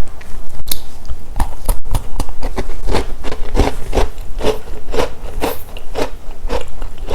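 Close-miked chewing of chocolate snacks, a regular rhythm of about two chews a second. A steady low hum runs underneath, from a microphone that was not plugged in properly.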